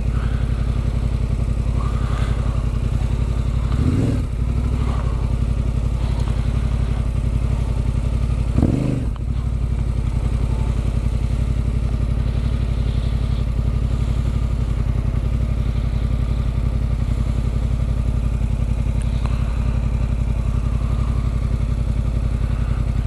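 Adventure motorcycle with an Arrow exhaust idling steadily. Two short wavering sounds rise over it, about four and nine seconds in.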